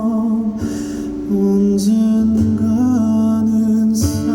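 A male singer singing a slow, tender ballad over instrumental accompaniment, holding long notes with a slight vibrato.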